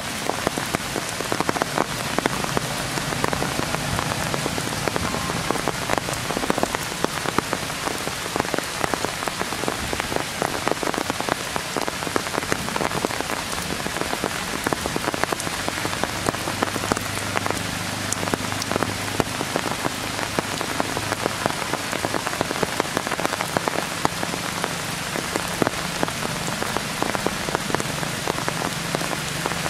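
Steady rain falling through a tree canopy: an even hiss with a dense patter of individual drops hitting leaves and branches.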